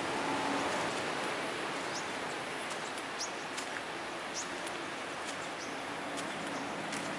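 Outdoor ambience of a tropical beach: a steady hiss of background noise, with several short, high bird chirps scattered through the middle.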